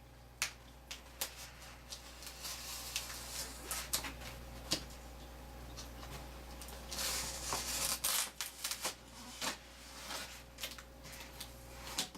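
Cardboard and packing material being handled and pried at while a tightly packed shipping box is opened: scattered clicks and knocks with rustling, and a longer scraping, tearing noise about seven seconds in.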